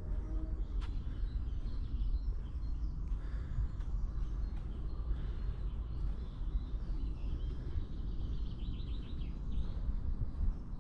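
Small birds chirping and singing over a steady low rumble, with a quick run of repeated notes near the end.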